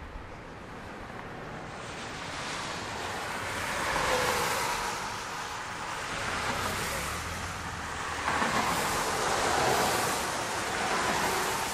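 Strong wind blowing hard across the microphone: a rushing noise that builds over the first couple of seconds, then swells and eases in gusts.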